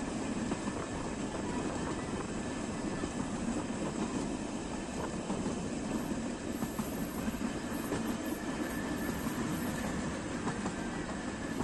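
Nilgiri Mountain Railway steam-hauled metre-gauge train running along the line, a steady rumble of the coaches' wheels on the track. A faint high wheel squeal comes in about halfway through and fades near the end.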